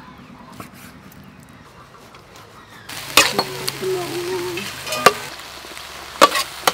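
Beef chunks sizzling as they fry in a hot pan, starting suddenly about three seconds in, with several sharp clinks of a utensil stirring against the pan. Before that, only a few faint taps.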